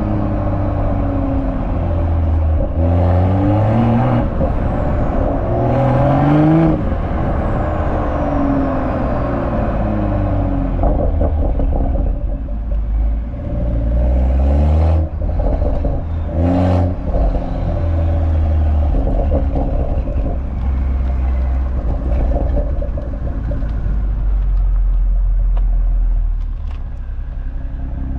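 BMW M340i's B58 3.0-litre turbocharged inline-six exhaust on short hard pulls: the note climbs sharply and drops back at each upshift, twice in the first several seconds and again about halfway. In between it settles to a steady low drone that eases off near the end.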